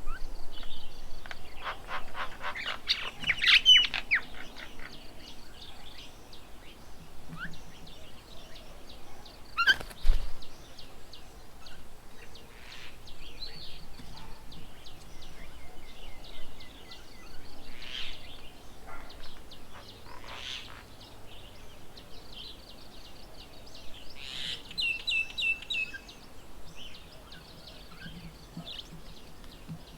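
Several wild birds chirping and calling, with a quick run of rapid, rising chirps in the first few seconds and a trilled series of calls near the end. A single sharp knock about ten seconds in.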